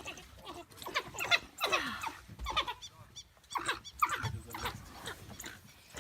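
African wild dogs calling at a contested kill: a string of short, high-pitched yelps and twittering calls, many sliding down in pitch.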